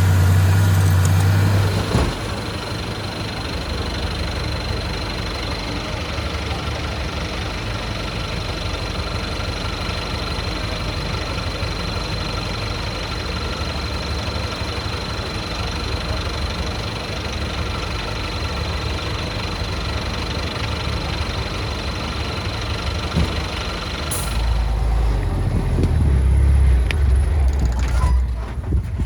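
Diesel engines of heavy earthmoving machines, dump trucks and a Komatsu D31P bulldozer, running steadily, with a thin high whine over them for most of the time. Near the end a deeper, louder engine rumble builds up.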